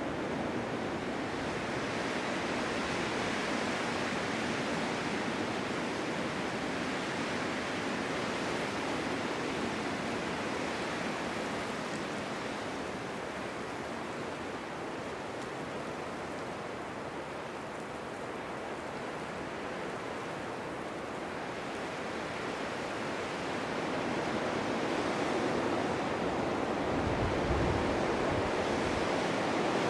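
Strong winter wind blowing steadily, a continuous rushing that eases a little mid-way and swells again near the end, with a brief low rumble of a gust about 27 seconds in.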